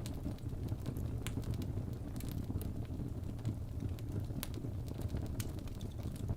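Fireplace fire crackling: a steady low rumble with scattered sharp pops and snaps throughout.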